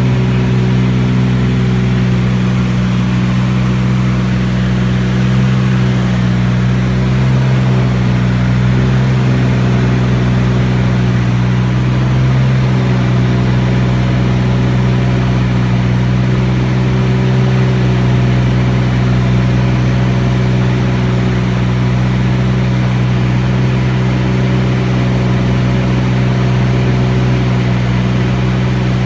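Beechcraft T-34 Mentor's engine and propeller running in flight, heard on board as a loud, steady drone that holds an even pitch throughout.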